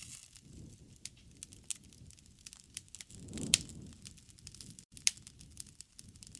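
Wood fire crackling and popping, over a low rush of flames, with one louder pop about three and a half seconds in.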